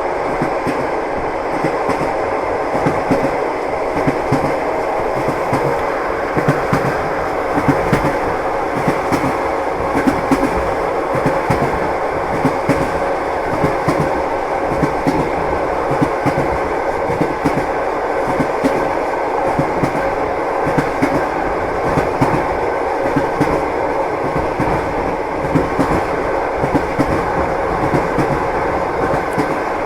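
Passenger train running at speed, heard from inside the carriage: a steady rumble with the continual clickety-clack of the wheels knocking over the rail joints.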